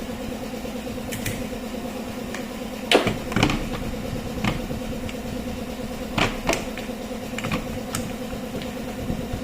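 A steady hum runs under scattered clicks and knocks of hard parts being handled, the loudest about three seconds in and another pair about six seconds in.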